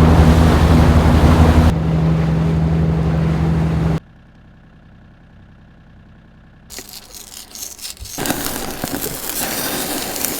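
Boat motor running steadily under a rush of wind and water noise. About four seconds in it cuts off abruptly to a quiet low hum. After that a loud, steady rushing noise builds up.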